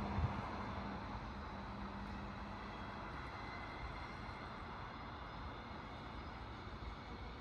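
A train moving away, its running noise fading steadily. Two knocks come at the very start, and a low hum dies out about three seconds in.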